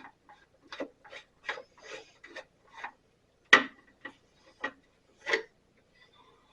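Hand-tool work on a bandsaw's lower pulley: a series of irregular clicks and taps of tools on metal parts, with one louder knock about three and a half seconds in.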